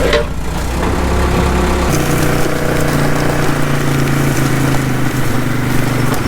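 An engine running steadily; its tone changes abruptly about two seconds in, then stays even.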